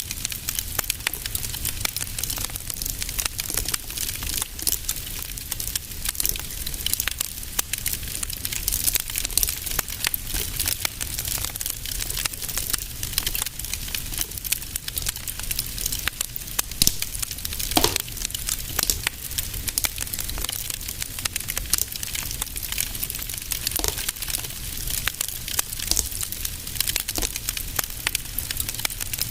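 Fire crackling in a fireplace: a dense run of small snaps and ticks over a low rumble, with a couple of louder pops, the strongest a little past halfway.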